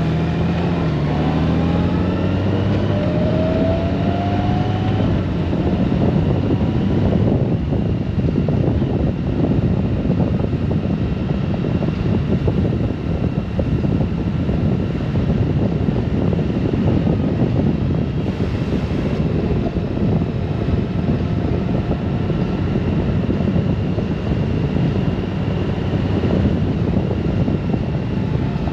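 Honda Gold Wing DCT motorcycle under way: its flat-six engine rises in pitch for the first few seconds as it accelerates, then steady wind and road rush while cruising.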